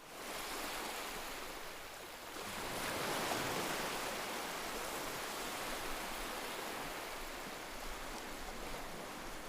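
Steady rushing noise, growing a little louder about two and a half seconds in.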